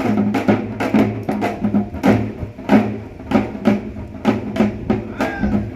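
Korean traditional percussion ensemble playing a fast, even rhythm of sharp drum strikes, about three a second.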